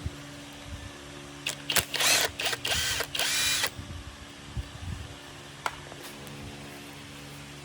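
A handheld power tool, such as a drill, run in several quick bursts about a second and a half in, ending with a longer run of about half a second, over a steady low workshop hum. A few light clicks follow.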